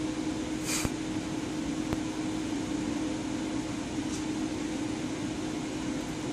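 Steady mechanical hum with a low steady tone, like a fan or air conditioner running, with a brief hiss about a second in and a faint click about two seconds in.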